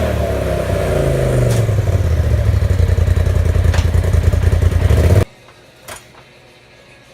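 Polaris RZR turbo engine running through its exhaust, its revs falling back from a blip and then holding a steady idle. The sound cuts off suddenly about five seconds in.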